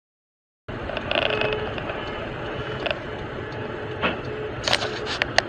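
A car's steady running noise, engine hum and road noise, starting abruptly a little way in, with several short sharp clicks or knocks near the end.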